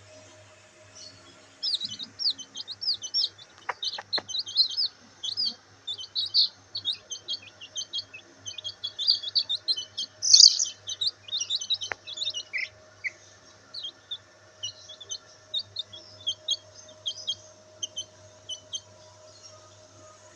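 Black bantam chicks peeping: a rapid run of short, high chirps from several chicks, dense through the first half and thinning out toward the end.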